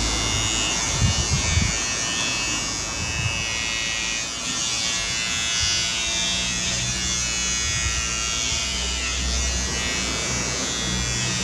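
Electric hair clippers buzzing steadily while cutting hair, with a few brief low handling bumps about a second in.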